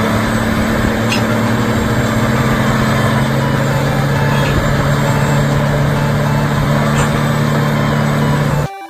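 Heavy diesel engine of a piece of construction equipment running at a steady speed, cutting off suddenly near the end.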